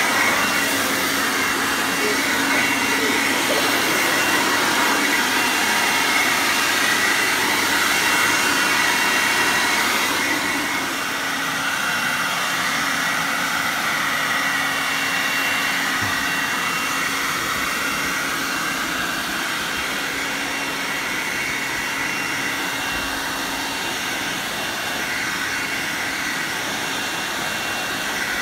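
Bosch garden leaf vacuum running steadily while vacuuming up leaves: a constant whirring hum with a high whine over it. Its level drops slightly about eleven seconds in and stays there.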